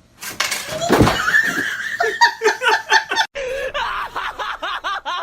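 A person laughing hard in quick repeated bursts.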